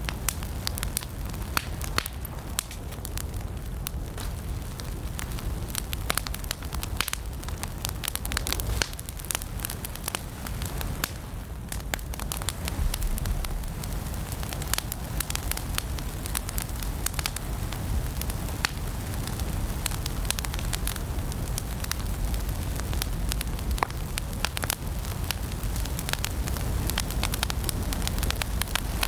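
Wood logs burning in a fireplace: frequent sharp crackles and pops over a steady low rumble of the flames.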